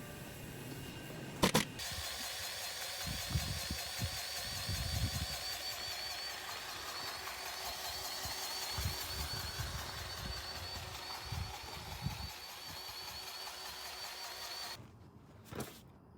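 Steady machine noise with a wavering high whine and scattered low thumps, starting after a sharp click and cutting off abruptly near the end.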